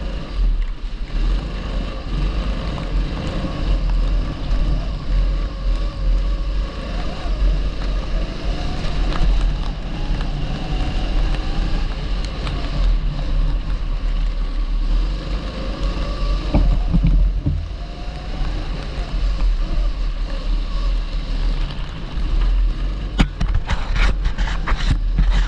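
A 270cc kart engine running under throttle, its pitch rising and falling as it is driven around the track, over a heavy low rumble of wind on the microphone. A few sharp knocks near the end.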